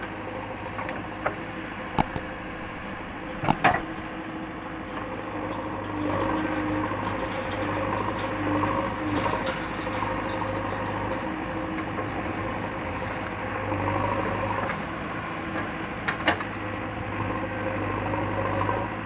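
Diesel engine of a JCB 3DX backhoe loader running steadily, a little louder from about six seconds in, with a few short sharp knocks, about two and three and a half seconds in and again after sixteen seconds.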